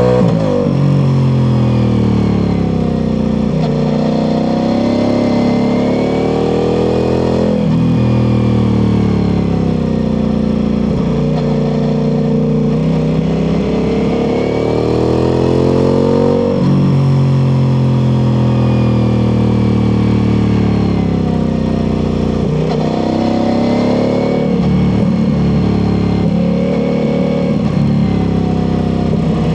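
Ducati Multistrada V4 Pikes Peak's V4 engine through an Akrapovic exhaust, running hard under load: the pitch climbs as the bike accelerates, then drops sharply as it slows into bends, several times over.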